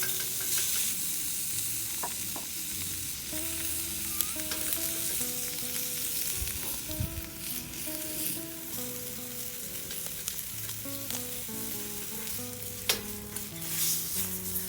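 Food frying in a hot pan, a steady sizzle, with a few light utensil clicks, the sharpest near the end. Gentle background music plays over it.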